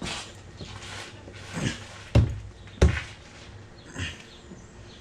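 Plastic body panel being pushed and knocked into place on a side-by-side: a series of about five dull knocks and thumps, the two loudest close together a little after two seconds and near three seconds.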